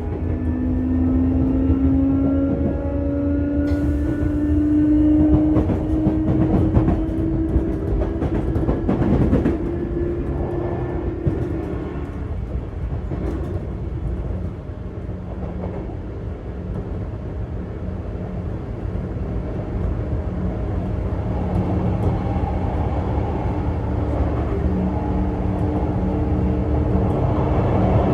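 Sotetsu 8000 series train heard from inside a motor car: the VVVF inverter and traction motors whine in several tones that rise together as the train accelerates, over heavy running rumble. About twelve seconds in the whine fades as power comes off and the train runs on with rumble alone, and a steadier whine returns in the second half.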